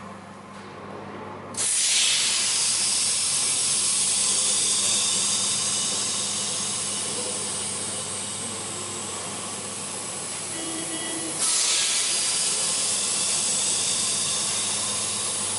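Compressed air hissing in the pneumatic clamping system of a trapezoid clamp press: a loud hiss starts suddenly about one and a half seconds in and slowly fades, then a second hiss starts suddenly about eleven seconds in. A steady low hum runs underneath.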